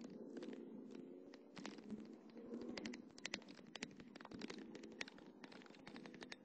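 Muffled in-cabin sound of a Porsche Boxster's flat-six engine, its pitch rising and falling during hard cornering. Rapid, irregular clicking and rattling runs over it.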